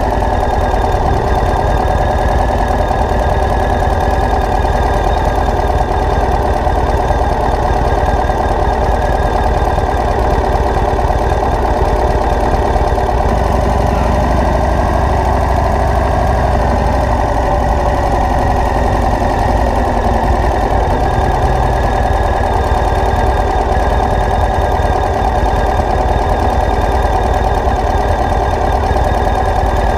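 A vehicle engine running steadily, with no change in speed.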